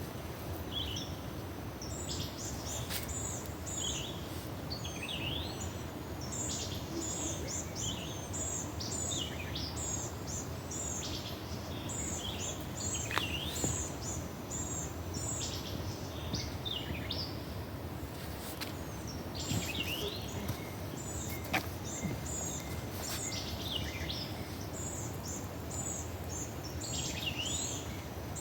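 Several small birds chirping and calling over and over, with short high chirps and quick falling notes, over a steady low rushing background. There are two sharp ticks partway through.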